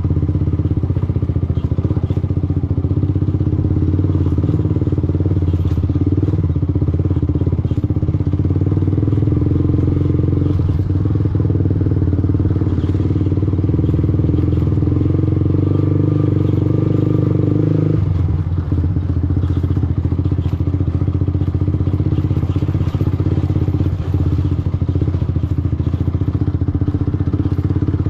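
Yamaha R15 V2 motorcycle's single-cylinder four-stroke engine running steadily under way, heard from an on-board camera. About two-thirds of the way through, the engine note drops suddenly.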